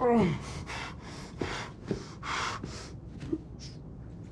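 A man lets out a short, falling groan, then gasps for breath in quick, ragged breaths, about three a second, which fade after about three seconds.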